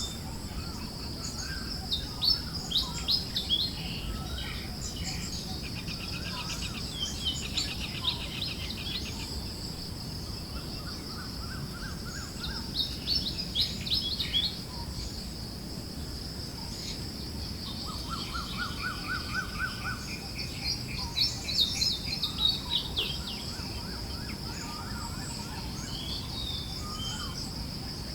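Forest birds chirping and trilling in several clusters of calls, some quick high chirps and some even rattling trills, over a steady high-pitched drone and a low, even hiss of wind.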